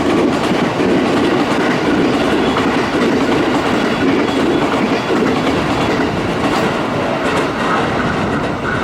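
JR West limited express Kounotori electric train passing through the station at speed without stopping: a loud, steady rolling rumble with wheel clicks over the rail joints.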